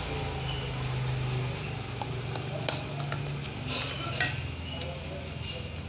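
Cutlery scraping and clinking on a plate of fried rice during eating, with a few sharp clinks, the loudest nearly 3 s in and just after 4 s, over a steady low hum.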